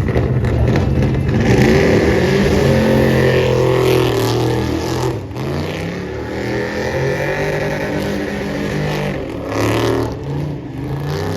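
Truck engines running and revving, their pitch rising and falling.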